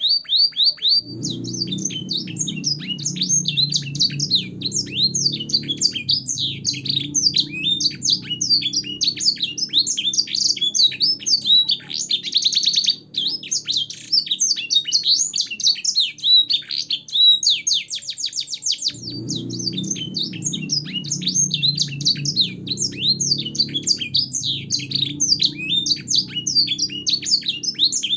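Domestic canary singing a long, continuous, fast song of varied chirps and rapid trills, its phrases borrowed from black-throated canary and sanger song, with a buzzy trill about twelve seconds in. A low background rumble runs underneath and drops out for a few seconds in the middle.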